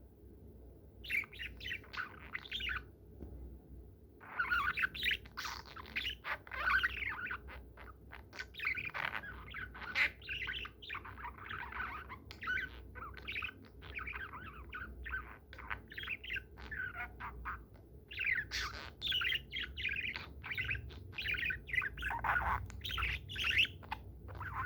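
Pet budgerigar chattering: a long run of rapid chirps and warbles, with short pauses about three seconds in and again near eighteen seconds.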